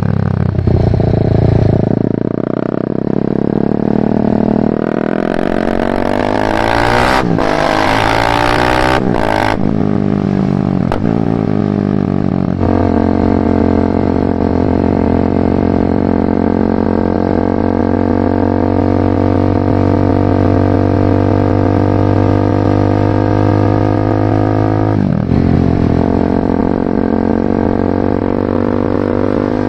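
Exhaust of a BMW G310R's single-cylinder engine through a full Mivv exhaust while riding. The revs change during the first dozen seconds, then the engine runs at a steady pitch, with one brief drop about 25 seconds in.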